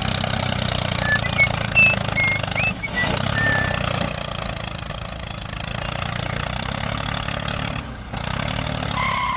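Mini tractor engine running steadily at an even speed, with a few short high chirps about a second in and brief drops in sound near three and eight seconds.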